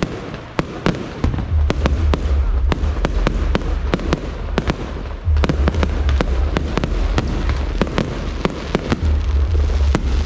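Fireworks going off: a rapid, irregular string of sharp cracks and pops, several a second, over a continuous noisy background. A heavy low rumble sets in about a second in and runs under the cracks.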